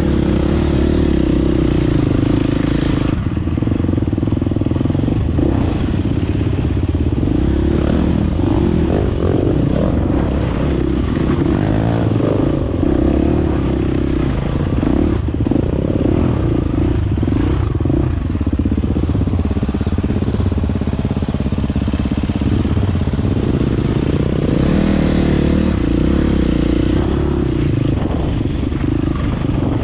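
Dirt bike engine running under way, its note rising and falling with the throttle and holding steady for a stretch in the second half, with rattling from the ride over rough ground.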